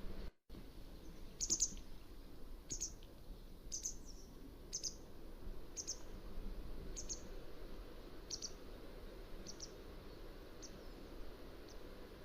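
Mountain wagtail calling: a series of about ten short, high, sharp notes, roughly one a second, growing fainter toward the end, over a steady background hiss. The sound cuts out completely for a moment just after the start.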